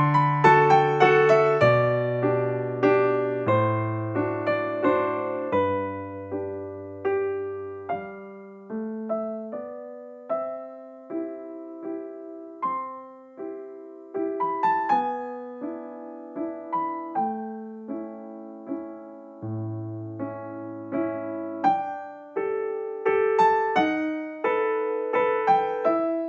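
Gentle background piano music: a melody of separate struck notes over bass notes that change every couple of seconds, each note fading after it is struck.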